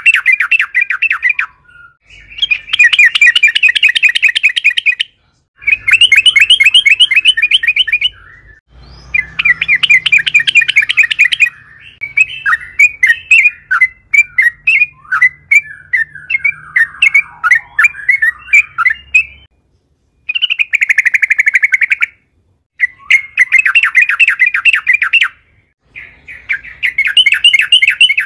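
Yellow-vented bulbul (trucukan) singing loud, rapid bubbling phrases of two to three seconds each, separated by short pauses. Around the middle comes a longer run of varied chattering notes.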